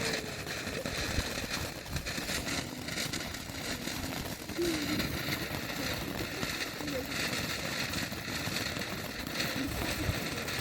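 Firework fountain burning with a steady hiss and fine crackle, with faint voices in the background.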